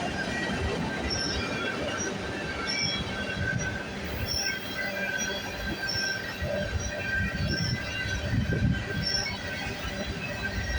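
CN freight train cars rolling past, steel wheels squealing in steady high tones over a low rumble of rail knocks.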